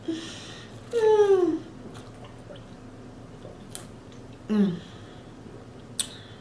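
A woman's short wordless vocal sounds, twice, with falling pitch, between a few sharp clicks and faint mouth sounds of eating.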